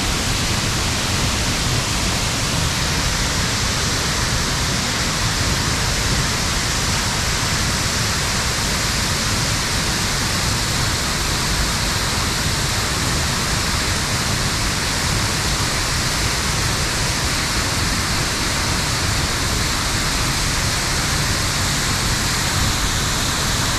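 Deer Creek Falls, a powerful waterfall, pouring with a loud, steady rush of water.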